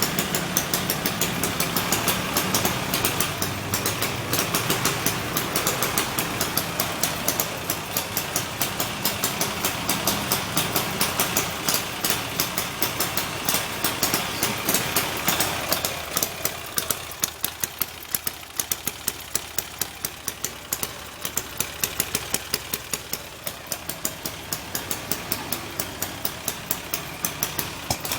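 Honda Vario Techno 110 scooter's single-cylinder four-stroke engine idling, with a regular ticking about two or three times a second. It settles quieter about halfway through.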